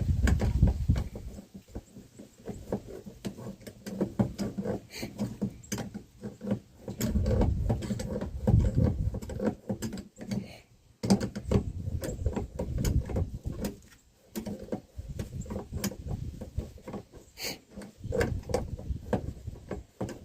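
Hand work on a loader joystick's control cable: a run of irregular clicks, knocks and scraping as the threaded cable fitting is twisted and screwed in, in several bursts with short pauses.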